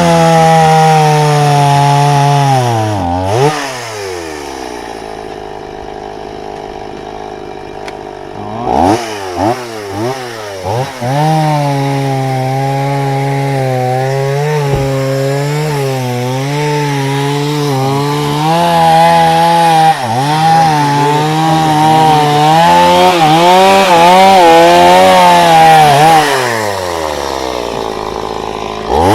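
Two-stroke chainsaw revving, then settling to idle for a few seconds. It is blipped a few times and then runs hard through firewood, its pitch wavering under load. Near the end it eases off and revs again.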